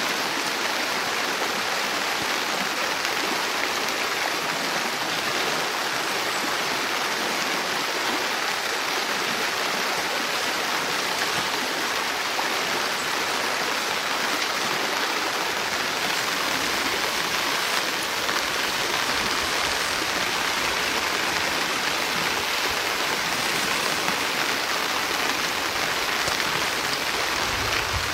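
Steady, even noise of water, unbroken and constant in level.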